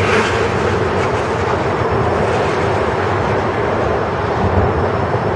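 Freight train cars rolling past: a steady, loud rumble of steel wheels on rail.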